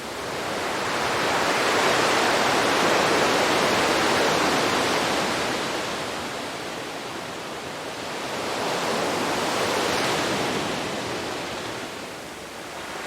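Sea waves breaking and washing up a beach: the surf swells and fades twice, with the first wave cresting in the opening seconds and a second, slightly softer one about three-quarters of the way through.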